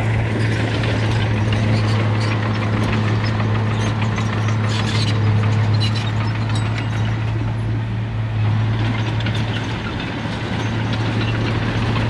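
Heavy diesel engine of earthmoving machinery running steadily, with a strong low hum and scattered short knocks over it.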